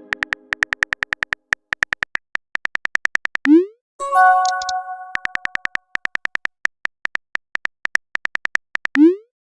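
Chat-app keyboard tap sounds, a rapid even run of clicks several a second as a text message is typed out. About three and a half seconds in a short rising pop marks a message being sent, followed at once by a bright chime of several ringing tones. The tapping goes on, and another rising send pop comes near the end.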